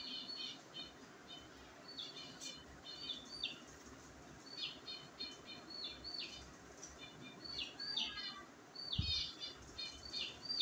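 Small birds chirping in quick runs of short, high notes, over and over. A single soft low thump comes about nine seconds in.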